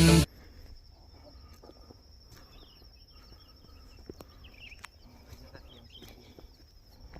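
A pop song cuts off just after the start. Then comes faint mountain-forest ambience: a steady, high insect trill with scattered faint bird chirps and a few light clicks.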